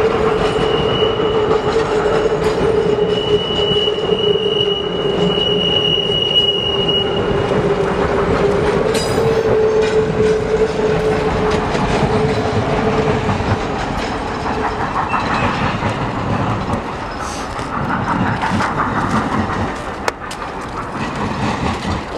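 Reading & Northern steam excursion train rolling by on the rails. Its wheels squeal in a long steady tone that fades out about two-thirds of the way through, over the clatter of the wheels on the track.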